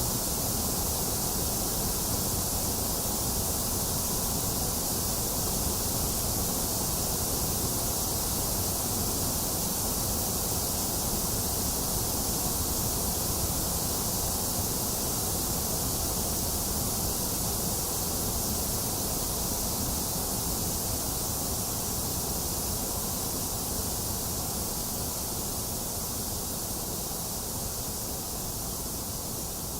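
Box fan running steadily, blended with steady rain into one even noise, easing off slightly toward the end.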